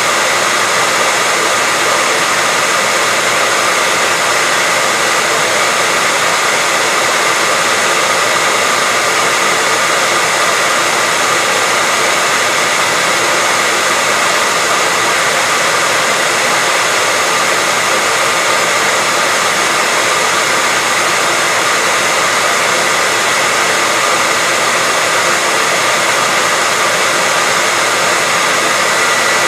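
Hair dryer running steadily: a constant airy whoosh with a faint steady whine in it, unchanging throughout.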